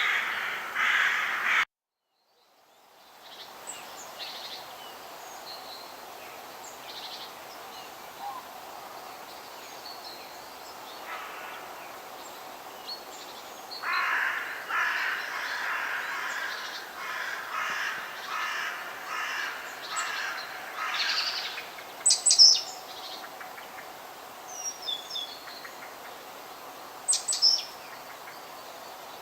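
Forest ambience of birds calling over a steady background hiss, with a long run of repeated calls in the middle and a few sharp high chirps near the end. Near the start the sound cuts out completely for about a second, then fades back in.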